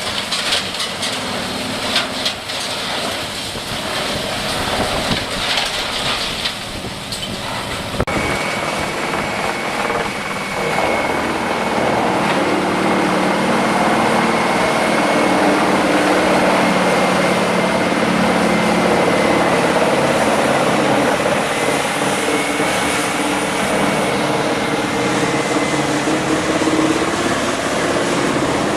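Heavy machinery running, with dense clattering for the first several seconds. About eight seconds in it switches abruptly to a steadier, louder engine run with a high, steady whine.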